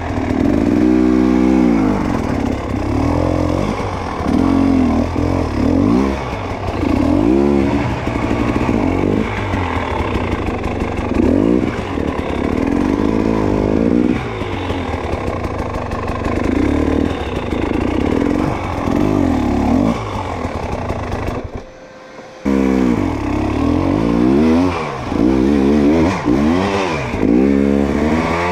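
Dirt bike engine revving up and falling back again and again, every second or two, with some clatter. The sound cuts out for about a second about three quarters of the way through.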